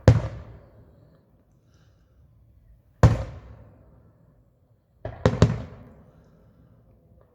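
Aerial fireworks bursting: a loud bang at the start, another about three seconds in, and a quick run of three about five seconds in. Each bang fades out over about a second.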